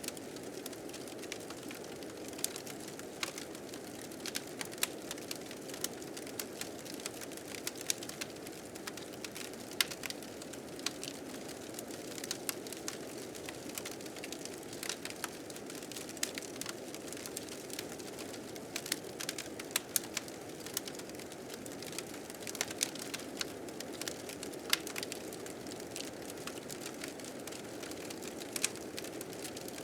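Wood fire crackling with frequent sharp, irregular pops over a steady low rush of blizzard wind.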